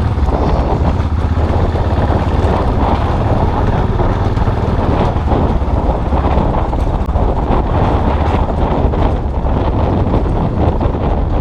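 Custom motorcycle engine running steadily under way, with wind rushing over the microphone.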